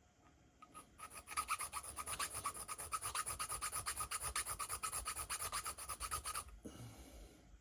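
Small hand file rasping in quick, even strokes across the regulator threads of an air rifle, starting about a second in and stopping near the end. It is cutting a small vent channel through the threads so the regulator can breathe.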